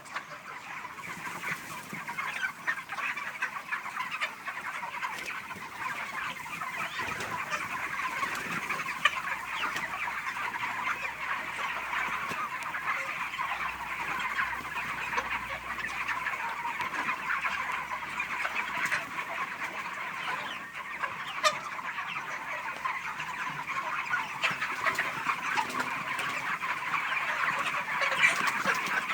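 A large flock of 37-day-old poultry-farm chickens clucking and peeping all at once, a dense, continuous chatter of many overlapping short calls.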